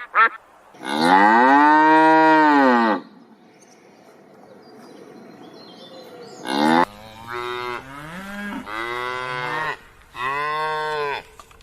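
Cow mooing: one long moo about a second in, then after a pause a run of shorter moos that shift in pitch, and another moo near the end.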